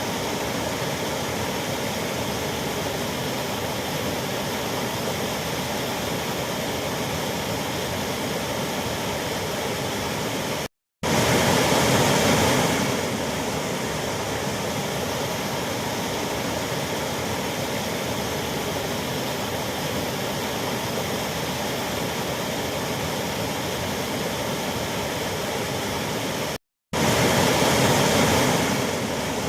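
Waterfall: a steady rush of falling water. It cuts out to silence twice, briefly, about 11 seconds in and again near the end, and each time it comes back a little louder for a couple of seconds.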